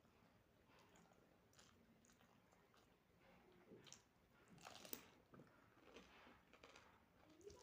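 A person chewing food close to the microphone: quiet, irregular chewing and biting sounds, a few louder ones about halfway through.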